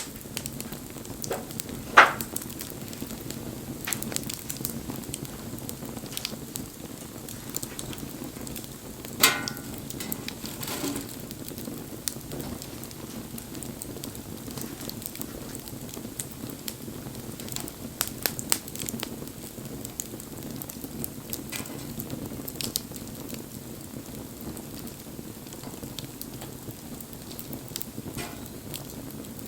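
Wood bonfire burning, crackling steadily with scattered small snaps and two louder pops, about 2 and 9 seconds in.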